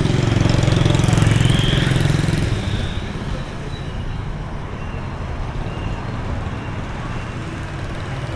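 Street traffic, with a motorbike engine passing close for the first couple of seconds and then dropping back to a steady background of traffic.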